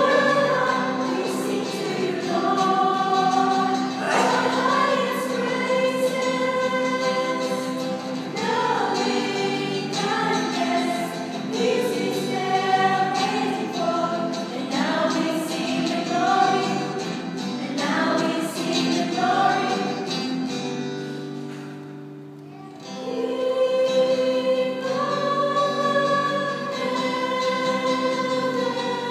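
A choir singing together in harmony, holding long notes, with a short break between phrases about three-quarters of the way through.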